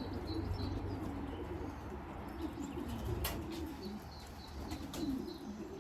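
Racing pigeons cooing steadily, with small birds chirping faintly and a single sharp click about three seconds in.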